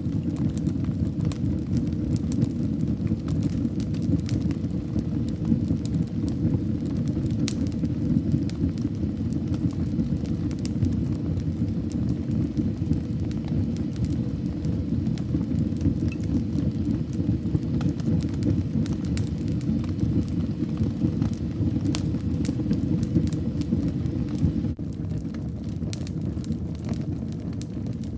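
Wood fire in a fireplace crackling: a steady low rumble of flames with frequent sharp pops and snaps. The rumble drops a little in loudness a few seconds before the end.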